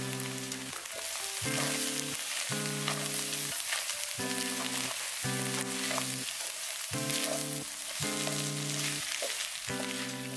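Pad thai stir-frying in a stainless steel pan: a steady sizzle as rice noodles, bean sprouts and garlic chives are tossed with chopsticks. Background music plays alongside, with a new chord about every second.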